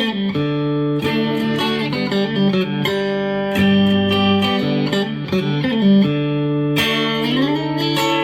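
Squier Affinity Stratocaster electric guitar played clean through an amp on its single-coil pickups: notes and chords ringing out, with several notes bent up in pitch together near the end.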